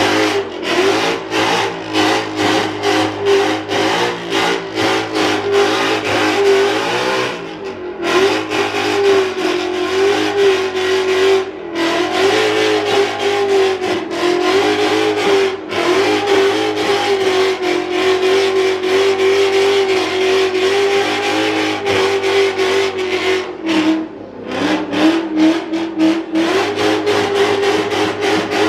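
A Ford Mustang's engine held at high revs, as in a long burnout: one loud, slightly wavering note with a fast stutter running through it, dropping briefly a few times.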